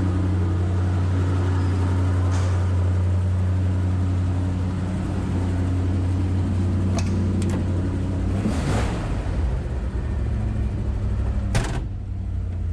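Ford F350 dump truck's V8 engine idling steadily, with a few light clicks and a sharp knock near the end.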